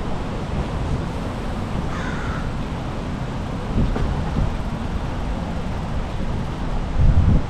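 Wind rumbling on the microphone, swelling near the end, with one bird call falling in pitch about two seconds in.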